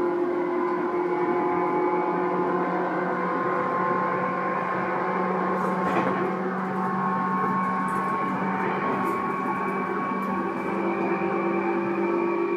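Tobu 9000 series electric commuter train running, heard from inside the car: a steady motor whine in several tones over wheel and rail noise, with a sharp click about six seconds in.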